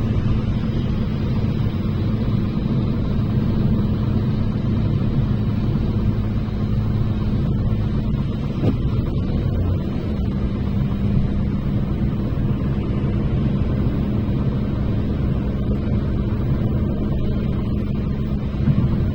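Steady low rumble of a moving vehicle's engine, its hum dropping slightly in pitch about ten seconds in.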